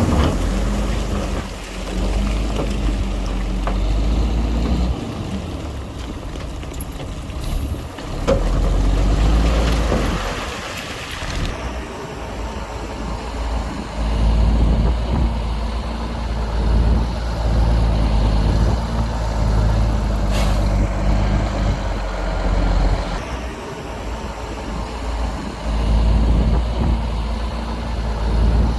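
Heavy diesel earthmoving machinery running, the engine swelling and easing in loudness several times as it works, with a few short knocks.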